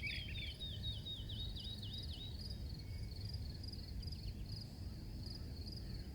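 Crickets chirping steadily in a regular pulse over a low background rumble. In the first two seconds a faster run of repeated higher chirps joins in, then stops.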